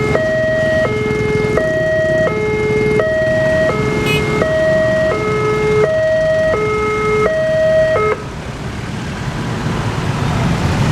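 Railroad level-crossing warning alarm sounding a steady two-tone high-low pattern, each tone about 0.7 s long, that cuts off about eight seconds in. A steady rushing noise runs under it and continues after it stops.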